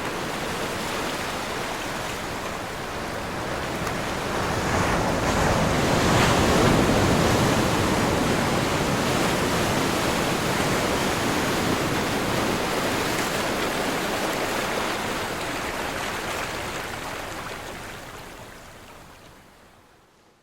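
Ocean waves crashing and washing on a shore, a steady rush of surf that swells to its loudest about six seconds in and then fades out near the end.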